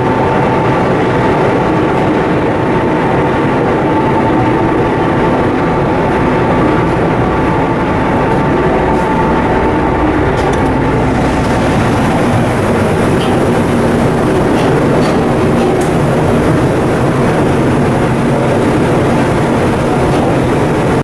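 Cargo ship's diesel machinery running steadily under way: a loud, even rumble with a steady whine on top. About halfway through, a hiss joins in.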